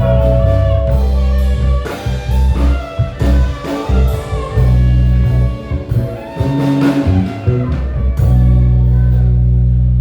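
Live band playing a blues-tinged groove: electric guitar over bass guitar, drum kit and keyboard. Deep held bass notes thin out into a choppier, more broken passage midway, then come back in full.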